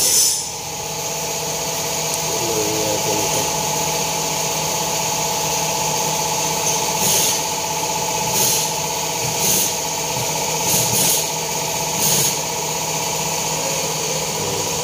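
2009 Toyota Camry's newly installed replacement engine idling steadily on its first run, with a few short hissing bursts in the second half.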